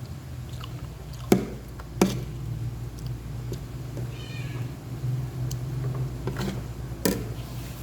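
Three sharp knocks of eating utensils against dishware, the second about a second after the first and the third near the end, with a short faint high cry in between, over a steady low hum.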